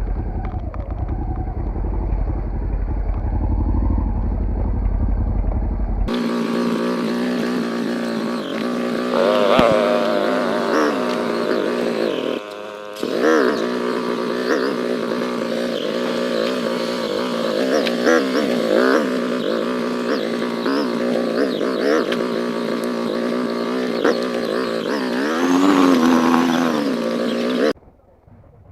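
Off-road motorcycle engine running and revving, its pitch rising and falling with the throttle. For about the first six seconds it is a muffled low rumble; then it becomes a clear engine note that runs on until it drops away abruptly near the end.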